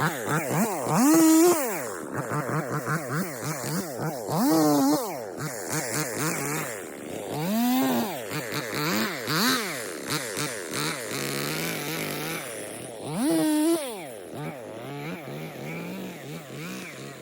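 Stihl two-stroke chainsaw being revved in repeated bursts, the engine pitch swinging up and falling back several times, then settling to a lower, steadier run near the end.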